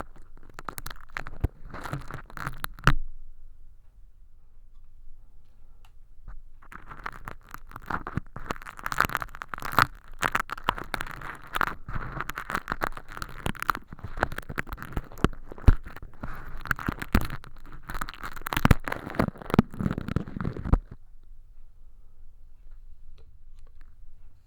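Tweezers picking at and peeling crinkly hologram-film fake earwax inside a silicone ear model: dense crackling and tearing. There is a short burst in the first three seconds, then a long stretch of crackling from about seven seconds to about twenty-one seconds.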